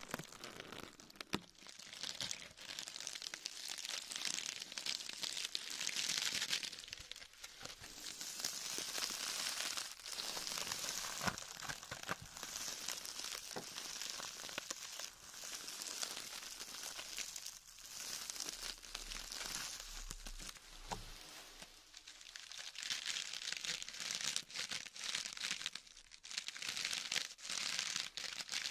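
Crinkling and crumpling, handled as an ASMR trigger: a hissy rustle that swells and fades in waves of a few seconds, with small crackles throughout.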